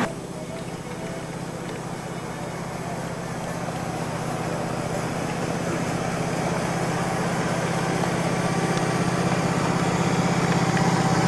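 Small engine running steadily with a fast, even pulse, growing gradually louder.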